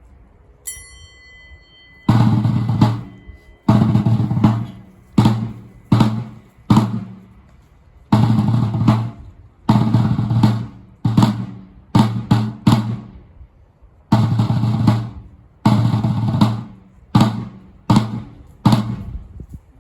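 Bass and snare drum beating a slow, solemn cadence: loud strikes in a fixed pattern that is played three times over. A short high ringing tone comes just before the first strike.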